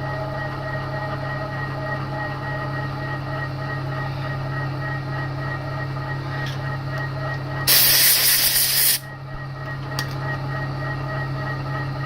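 TOS milling machine running with a steady hum and whine while drilling out a snapped exhaust stud. About two-thirds of the way in, a loud hiss lasting just over a second cuts in and stops abruptly.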